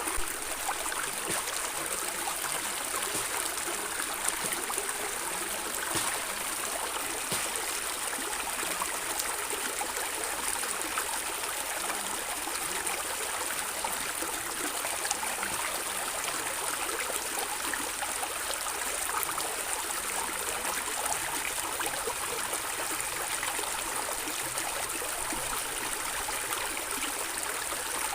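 Stream water flowing and gurgling steadily over stones, with small splashes and trickles throughout.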